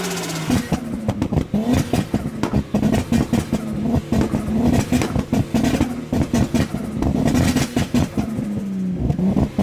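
Turbocharged Lexus IS200 engine running close by, with a steady note and a choppy, rapidly pulsing exhaust sound.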